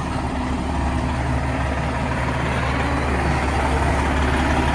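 Fire apparatus diesel engine idling steadily with a low hum.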